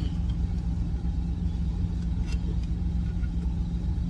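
Truck engine idling: a steady low rumble with a constant hum, and a couple of faint clicks.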